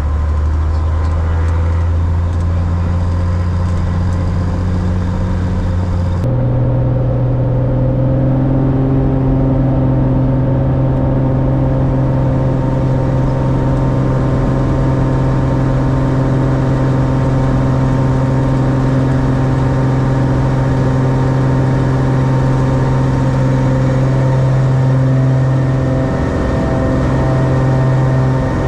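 Cessna 180's piston engine and propeller running at high power through the takeoff and climb, a loud steady drone. About six seconds in the drone changes abruptly to a higher, steady pitch.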